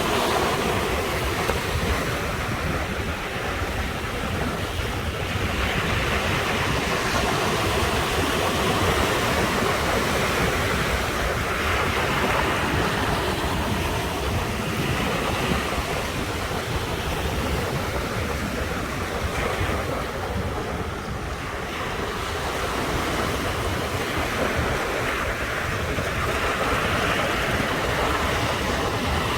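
Ocean waves breaking on a shore, a continuous rushing wash that swells and eases every few seconds, with some wind on the microphone.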